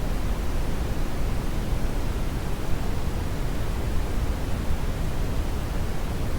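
Steady brown noise: an even, unchanging hiss-like rumble, strongest in the low end and falling off toward the highs.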